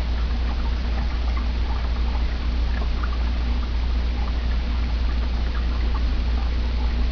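Water trickling and splashing down a small three-tier reptile waterfall, fed by an aquarium filter working as its pump, with a steady low hum underneath.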